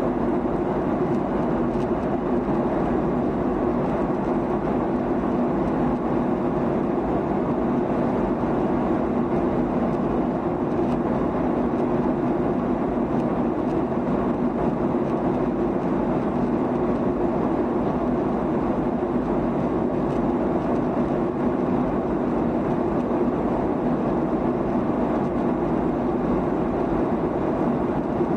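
Steady cabin noise inside a Boeing 737-800 airliner in flight: the even rush of engines and airflow with a low, unchanging hum.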